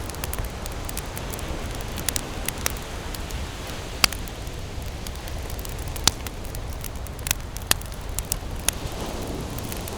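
Wood campfire burning and crackling: scattered sharp pops and snaps over a steady low rumble. The loudest pops come about four and six seconds in.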